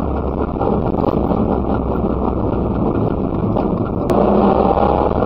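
Messerschmitt KR200 bubble car's single-cylinder two-stroke engine running steadily under way, mixed with road noise and wind on the microphone. A sharp click about four seconds in, after which the engine gets a little louder.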